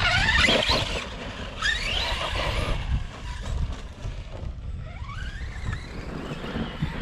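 Brushless electric motor of an Arrma RC truck whining up in pitch as it accelerates, three times: right at the start, about a second and a half in, and about five seconds in.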